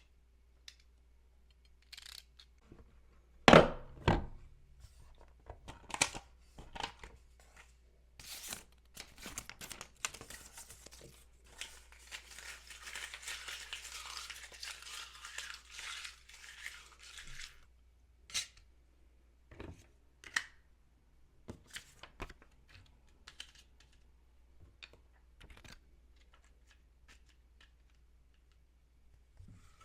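Handling noise from small craft work: scattered clicks and taps, two sharp knocks about four seconds in, and a stretch of several seconds of tearing or crinkling paper in the middle.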